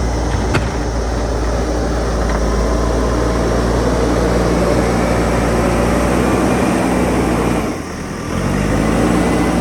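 JCB backhoe loader's diesel engine running steadily while working. About eight seconds in it drops away briefly, then its pitch rises as it revs back up.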